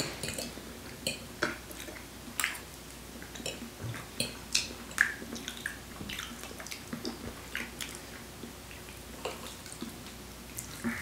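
Quiet eating of soft durian flesh: faint wet chewing and mouth sounds, with scattered small clicks of forks against plates.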